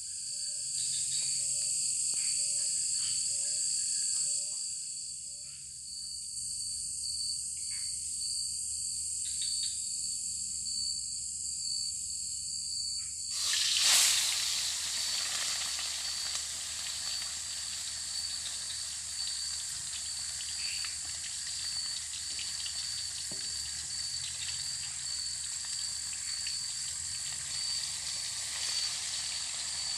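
Tilapia going into hot oil in a wok about halfway through, with a sudden loud hiss that settles into a steady sizzle of frying. Insects trill in a steady pulsing tone throughout.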